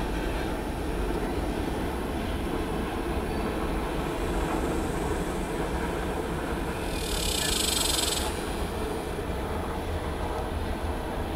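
Freight train of tank cars and covered hoppers rolling past with a steady low rumble of wheels on rail. A brief high hiss comes about seven seconds in and lasts roughly a second.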